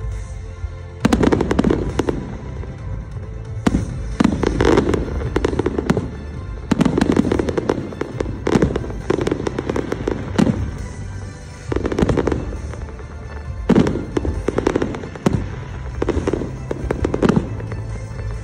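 Festive fireworks salute going off in a rapid series of volleys, a burst every second or two, each a sharp bang trailing into crackling, over a continuous low rumble.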